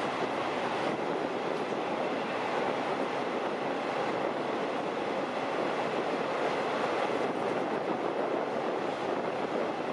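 Long-distance passenger train running along the track: a steady, even rolling noise of wheels on rail, with no distinct clacks or horn.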